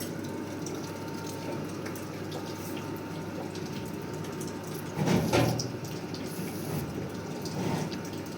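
Water running steadily, with a louder swell about five seconds in.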